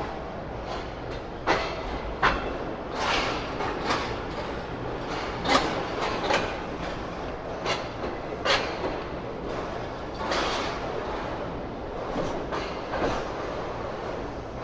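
Passenger train running on the rails, a steady rumble broken by about a dozen irregular clanks and knocks.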